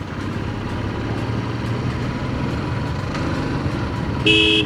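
Motorcycle running steadily on the road, its engine and road noise even throughout. A short horn beep sounds near the end.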